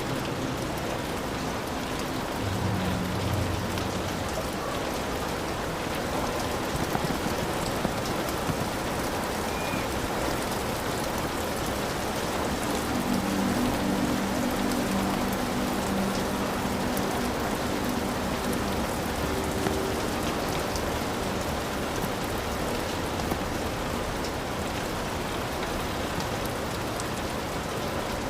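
Heavy rain falling steadily on a hut roof, with low thunder rumbles about three seconds in and again for several seconds in the middle.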